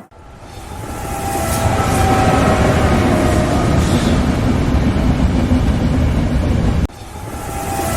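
Train passing close by, a loud rumble of wheels on rails that builds over the first couple of seconds and then holds steady. It cuts off abruptly about seven seconds in and starts building again.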